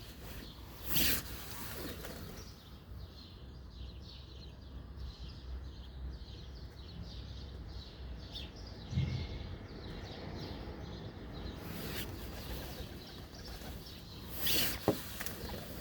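Birds chirping in quick, evenly repeated short notes over a steady low background rumble. There are two brief loud rushing bursts, one about a second in and one near the end.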